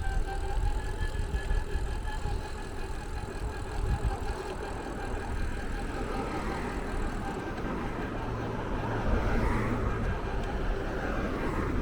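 A vehicle running: a steady low rumble with faint steady high tones over it.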